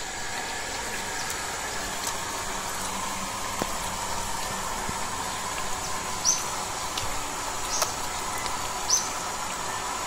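Steady outdoor background hiss and hum, with three short, high chirps from a bird in the second half.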